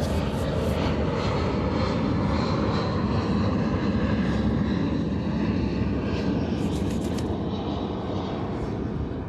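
A steady engine drone that eases off slightly near the end.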